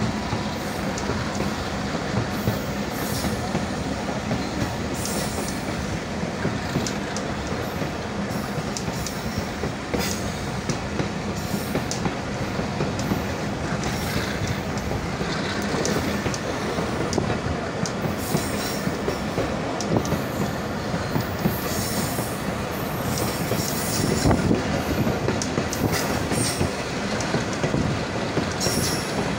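Mohenjo Daro Express passenger train running along the line, heard from an open carriage window: a steady rumble of wheels on the rails, with frequent sharp clicks and brief high squeals from the wheels.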